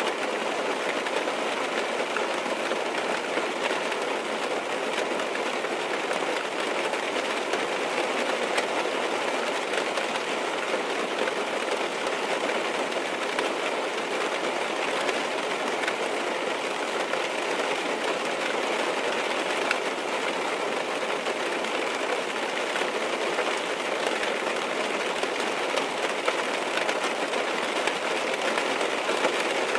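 Steady rain falling on a car's roof and windows, heard from inside the car: a dense, even patter with occasional louder drops.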